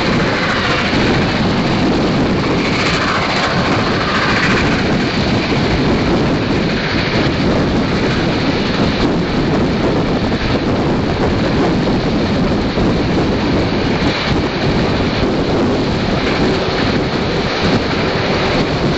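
Moving steam-hauled train heard from on board: a steady loud rumble and rush of wheels on rail and running noise, with a faint steady tone coming in near the end.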